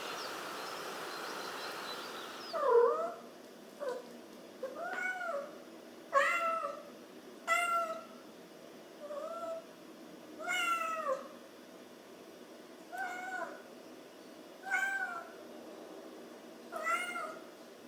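A cat meowing repeatedly, about ten separate meows one to two seconds apart, starting a couple of seconds in after a steady hiss of outdoor ambience.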